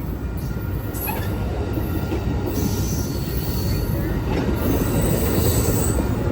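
Train running past on the rails: a steady heavy rumble of wheels on track, with faint short high squeals now and then.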